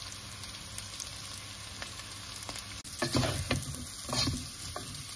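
Potatoes and onions sizzling in oil in a nonstick pot. About three seconds in, a spatula starts stirring, scraping and turning the potatoes in the pan.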